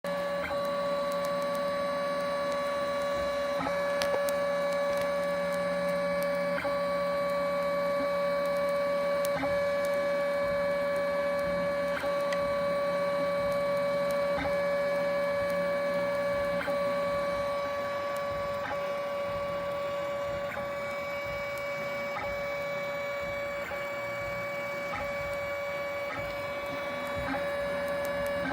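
3D printer running with a steady motor whine while its hot nozzle crackles and pops in irregular sharp clicks as it extrudes. The crackling comes with prints that come out bubbly.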